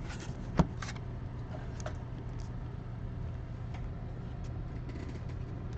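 A few light clicks and taps over a steady low hum, with the sharpest click about half a second in and fainter ticks after.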